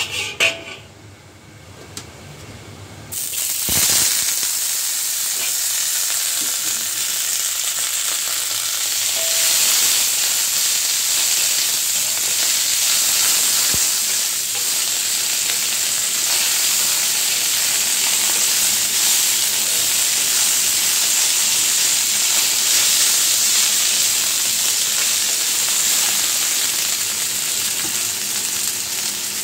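Garlic chives sizzling in hot oil in a wok. The sizzle starts suddenly about three seconds in, as the chives go into the pan, then keeps frying steadily while they are stir-fried with a metal spatula.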